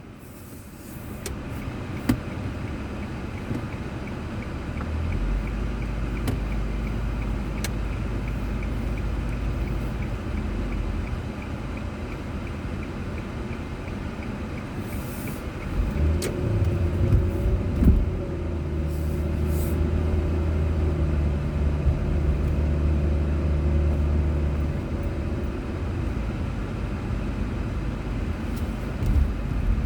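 A car being driven, picked up inside the cabin by a dashboard camera: a steady low engine and road rumble with scattered small clicks and knocks.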